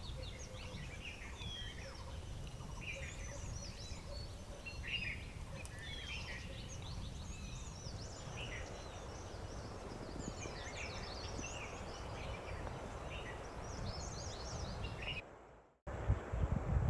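Many birds chirping and calling over a steady low rumble of outdoor noise. About fifteen seconds in, it fades out and gives way to loud low thumps.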